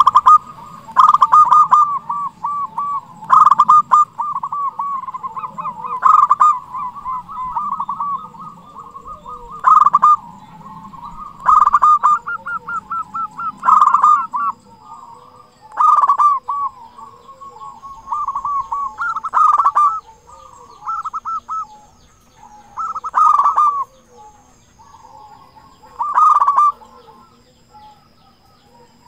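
Zebra dove (perkutut) cooing in full song: loud, trilled coo phrases repeat every two to three seconds, with softer cooing in between.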